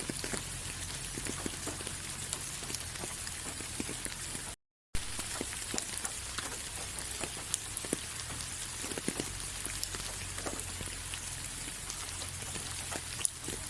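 Steady rain falling, with individual drops clicking sharply over an even hiss and a low steady rumble underneath. The sound cuts out completely for a split second about four and a half seconds in, then resumes.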